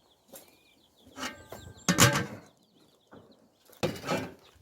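Chicks peeping in short, quick high chirps, broken by two loud bursts of noise, about a second in and near the end.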